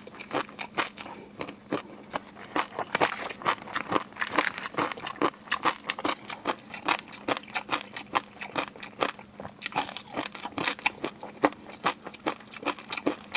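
Close-miked eating: a person biting and chewing, with a quick, irregular run of sharp crunches and clicks, several a second.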